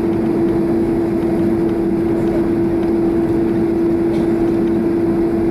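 Boeing 767-300's GE CF6 engines running at idle thrust as the airliner taxis: a steady drone with a constant hum.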